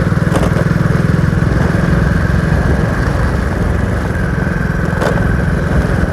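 Motorcycle engine running steadily under way, with a fast even beat, and two brief clicks, one near the start and one near the end.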